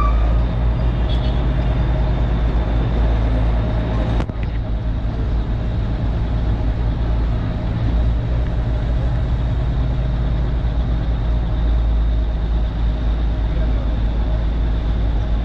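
Steady low rumble of motor vehicle engines with faint steady whining tones, and a brief click about four seconds in.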